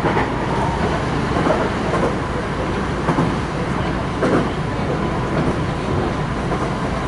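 Kintetsu electric commuter train running, heard inside the passenger car: a steady rumble of wheels on rails and running gear.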